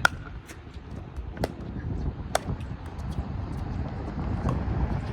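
Pickleball paddles hitting the ball in a rally: sharp pops, the loudest right at the start and others about a second and a half and two and a half seconds in, over steady wind rumble on the microphone.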